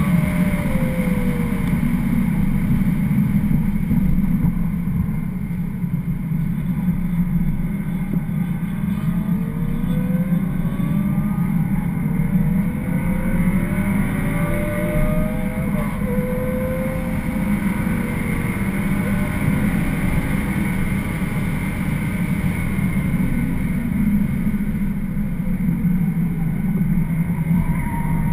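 BMW 335xi's twin-turbo straight-six heard from inside the cabin under hard driving, over a heavy, steady road and wind rumble; the engine note rises and falls several times with throttle and gear changes.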